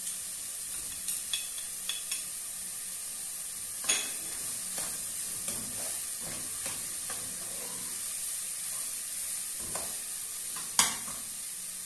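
Chopped onion, garlic and peppers sizzling in an aluminium pot while a stainless-steel ladle stirs them, scraping and knocking against the pot. The sharpest clinks come about four seconds in and near the end.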